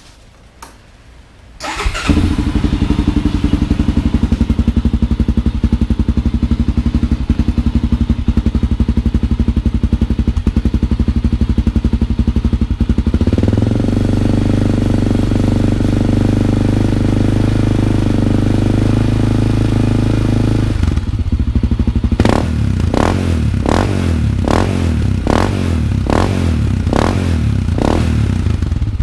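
1999 Honda 400EX's single-cylinder four-stroke engine through an FMF Q4 slip-on muffler with its spark arrestor fitted, heard up close at the exhaust. The engine comes in loud about two seconds in and idles steadily. It then holds a higher steady speed for several seconds and ends with a quick string of throttle blips, about one a second.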